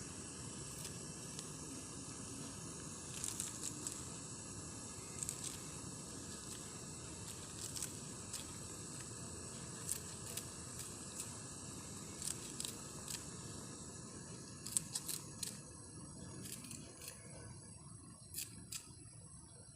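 Steady outdoor night ambience at a mountain campsite: a low hiss with a thin, high, steady drone above it, and scattered light clicks and taps. The low hiss fades over the last few seconds.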